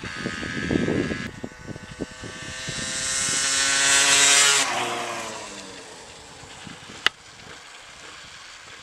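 Yamaha DT 125 two-stroke single with a full Giannelli exhaust, popping and crackling at low revs. It then revs up and passes by, loudest about four and a half seconds in, before its pitch drops and the sound fades away. There is one sharp click near the end.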